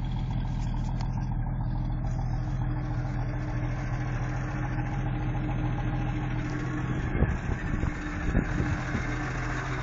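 The AMC 258 cubic-inch inline-six of a 1974 AMC Gremlin idling steadily, still warming up after a cold start. A few dull knocks come around seven and eight and a half seconds in.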